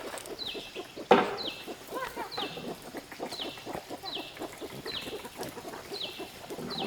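Chickens clucking, with a high, downward-sliding peep repeating about once a second. There is a single sharp knock about a second in.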